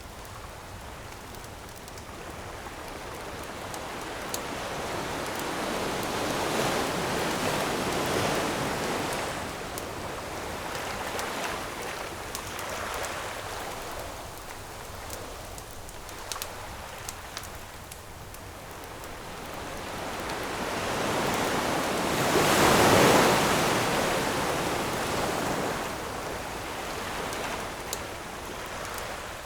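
Ocean waves surging and washing onto a shore, two swells building and breaking, the larger one about two-thirds of the way through, with a few sharp pops from a wood campfire crackling.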